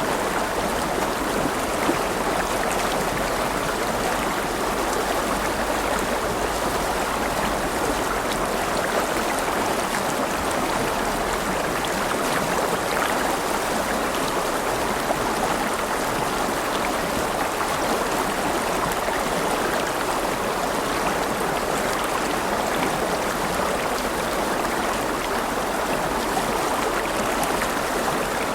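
River water rushing and babbling steadily over stones, an even continuous flow with no break.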